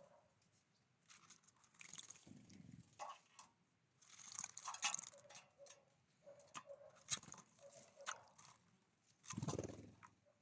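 Faint scattered taps, crunches and rustles of small birds pecking and handling seed at a feeder, with a louder rustle near the end.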